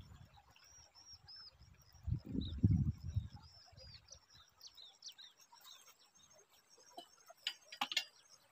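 Wild birds chirping: many short, high calls that slide downward in pitch, repeated throughout. A brief low rumble about two seconds in, and a few sharp clicks near the end.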